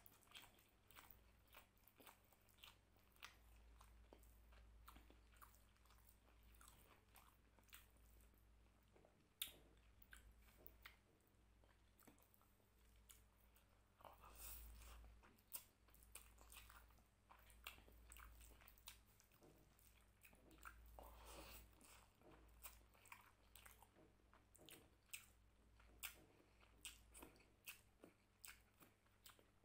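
Faint close-up chewing, with many short wet mouth clicks and smacks, as a person eats handfuls of rice and mutton curry. The hand squishing rice into the curry can also be heard.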